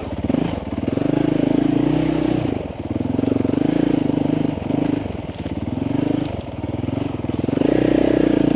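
Motorcycle engine working at low speed over rough ground, the throttle opened and eased off again and again as the bike climbs a rocky trail.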